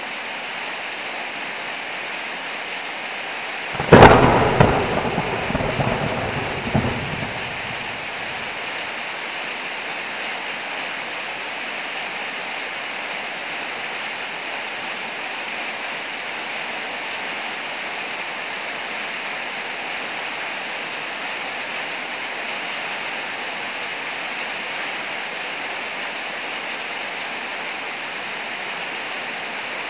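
Steady heavy rain with a sharp clap of thunder about four seconds in, rumbling on with a few more cracks for about four seconds before fading back into the rain.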